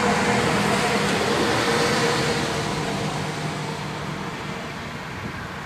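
Steady noise of a passing road vehicle, engine and tyres, slowly fading away.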